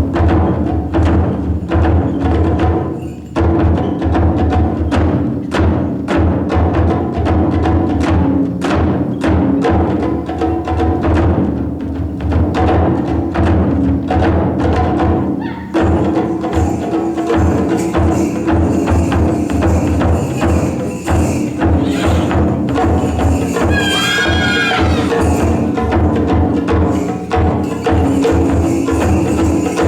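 Japanese taiko drums struck in rapid, dense patterns over a sustained low tone. About 24 seconds in, a brief high wavering tone rises above the drumming.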